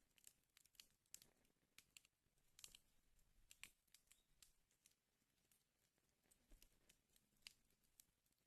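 Wood fire in a fireplace crackling softly, with irregular sharp pops and snaps over a faint hiss.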